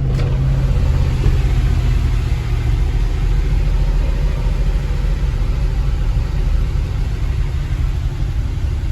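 1966 Ford Thunderbird V8 idling steadily with a low rumble, less than half a minute after a cold start following a month or two of sitting.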